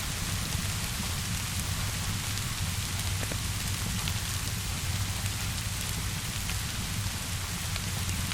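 Steady rainfall with a constant low rumble underneath, and a few scattered sharp crackles from a wood fire.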